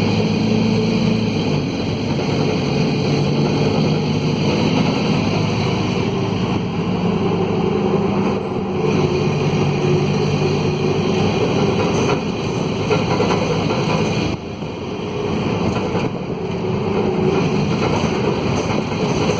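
Mercedes-Benz OM904LA four-cylinder diesel of a midibus running under way, loud because of a broken exhaust. The engine note shifts in pitch several times, with a brief drop in level about three-quarters of the way through.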